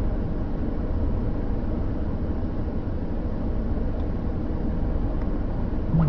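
Steady low rumble of a car on the move, engine and road noise, with a short falling tone near the end.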